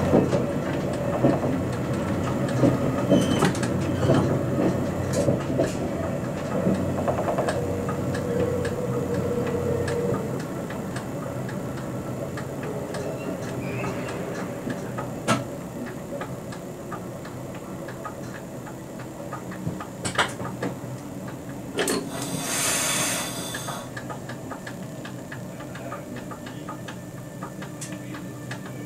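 RBDe 560 "Domino" electric multiple unit heard from the driver's cab, rolling over station pointwork with sharp wheel clicks over the switches and rail joints. Its running noise fades as it slows into the platform, and a short hiss comes about two-thirds of the way through.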